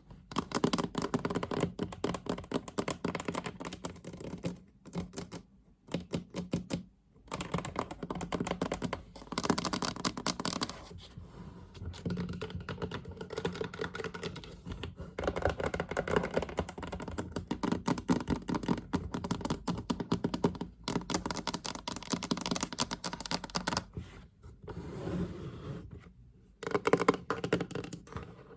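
Fast tapping on a chest: a rapid, dense patter of taps in runs of several seconds, broken by brief pauses.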